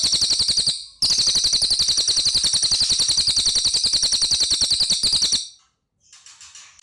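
Cililin songbird singing a very fast, high-pitched rattling trill of evenly repeated notes. The trill breaks off briefly under a second in, runs on until about five and a half seconds, and gives way to a few fainter, scattered calls near the end.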